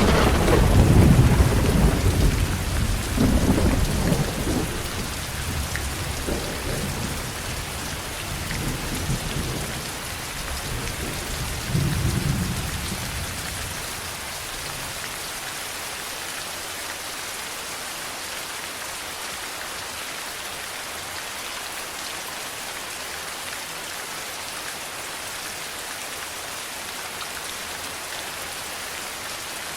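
Heavy rain falling steadily with a thunderclap that breaks at the start and rolls on in several deep swells, the last about twelve seconds in, before fading away to leave only the rain.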